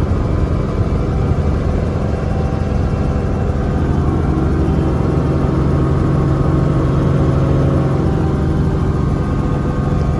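Helicopter running steadily: a loud, even mechanical drone with a steady low hum.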